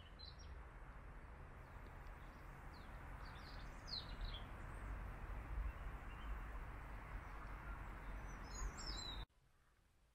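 Faint outdoor ambience with small birds chirping now and then over a soft steady background hiss, with a quick cluster of chirps near the end. The sound cuts off abruptly about nine seconds in.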